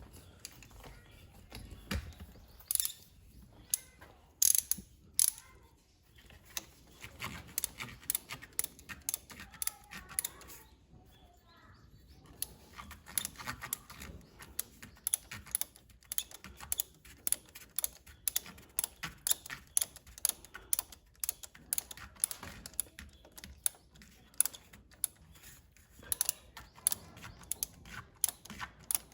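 Hand tools clicking and clinking on metal while a new tractor radiator hose is being fitted. About halfway in, a fast run of several sharp clicks a second begins.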